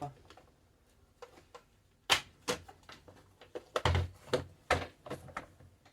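Plastic cover being fitted back onto a robot vacuum cleaner: a series of about five sharp plastic clicks and knocks, starting about two seconds in.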